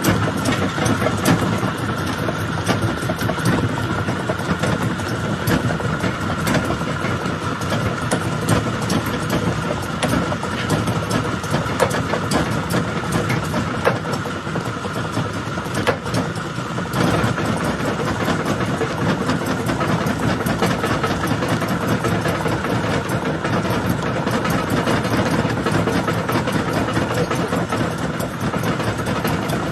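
Stone jaw crusher running under load: a steady machine drone and hum with a constant clatter of cracks and knocks as rock is broken between the jaws.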